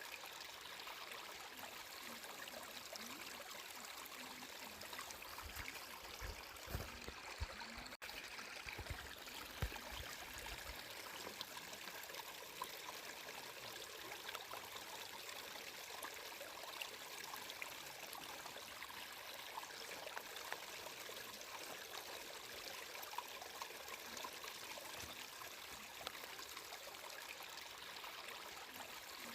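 Flowing water trickling steadily, with a few low bumps between about six and ten seconds in and a momentary dropout near eight seconds.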